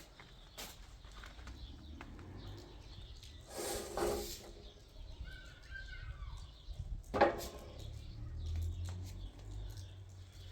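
Bird calls, with scattered clicks and knocks and a sharp loud knock about seven seconds in.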